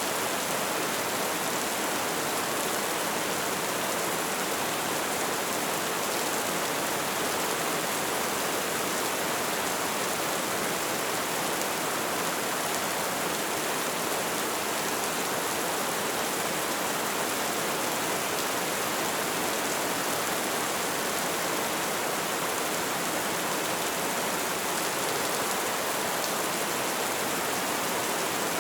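Steady light rain: an even hiss of many small drops, with no breaks or single distinct strikes.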